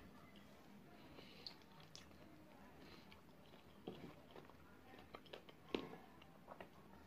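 Faint close-up eating sounds of a person chewing sauce-coated fried chicken wings, with wet mouth and lip clicks; a handful of sharper clicks come in the second half, one louder than the rest shortly before the end.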